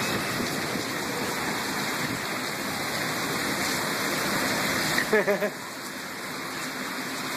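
Heavy rain pouring down in a thunderstorm downpour, a steady rushing hiss. A brief voice sounds about five seconds in.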